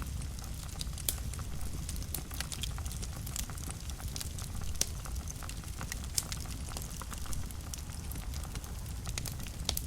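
Wood fire burning in a fireplace: a steady low rumble of flames with irregular sharp crackles and pops, a few louder snaps about one, five and six seconds in.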